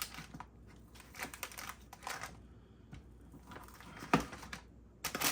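Scattered light clicks and taps from handling kitchen food containers, with a sharper knock about four seconds in.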